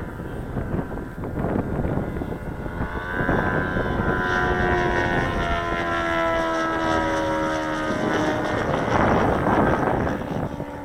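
Saito 180 four-stroke glow engine on a radio-control model plane, turning an 18x6 propeller in flight. Its pitch falls slowly over several seconds mid-way, with rushing wind noise before and after.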